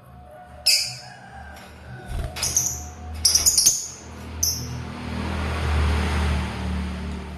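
Lovebirds chirping: several sharp, high chirps in the first half, followed by a longer rush of noise that swells and fades.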